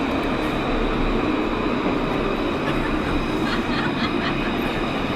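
Loud, steady mechanical rumble with faint high steady tones over it; it cuts off suddenly near the end.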